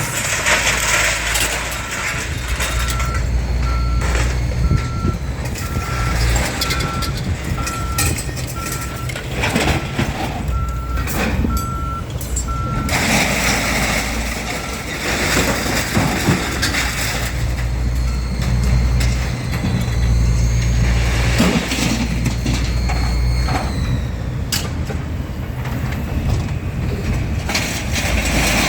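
Heavy vehicle's back-up alarm beeping evenly at one pitch over its engine running; the beeping stops about halfway through while the engine keeps running, with occasional high whines and knocks.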